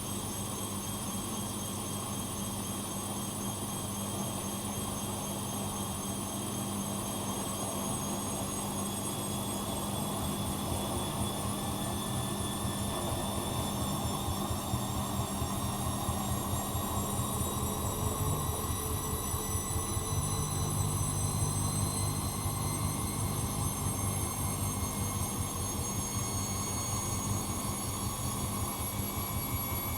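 Bosch Maxx Advantage WFCX2440 slimline washing machine spinning, its motor whine slowly rising in pitch as the drum speeds up, over a steady low hum.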